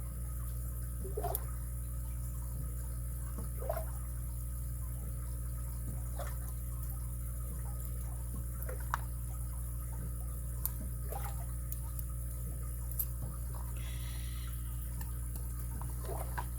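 Faint, scattered clicks and small scrapes of lock picks working the pins inside a Stanley padlock, over a steady low hum.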